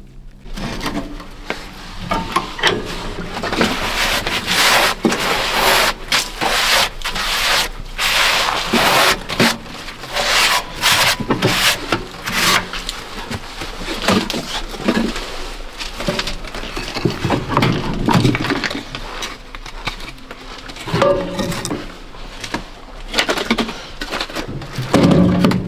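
Dry kindling and firewood being handled, rubbed and scraped while a fire is laid in a small wood stove: a continuous irregular clatter and rustle of wood with scattered knocks.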